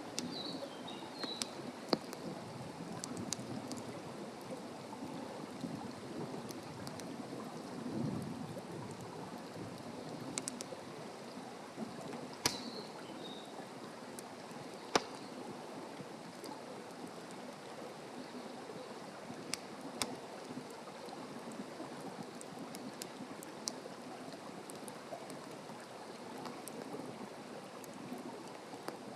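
Wood fire burning in a campfire stand: a steady crackle with sharp pops scattered through it, a few of them standing out.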